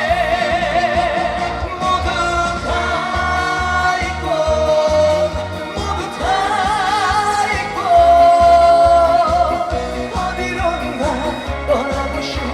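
Trot song performed live: a sung melody of long notes with vibrato over a backing track with a steady low beat.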